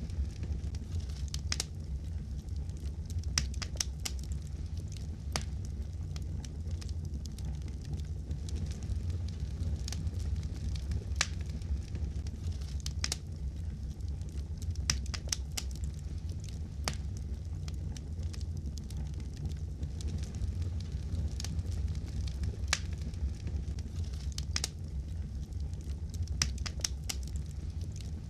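Wood fire crackling in a fireplace: a steady low rumble of the burning fire with irregular sharp pops and snaps of the wood.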